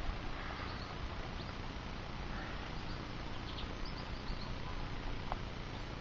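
Steady hiss of road traffic, with faint, short, high chirps from small birds scattered through it.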